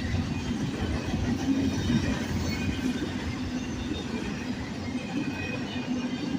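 Empty intermodal well cars of a freight train rolling past: a steady rumble of steel wheels on rail, with faint high-pitched wheel squeals.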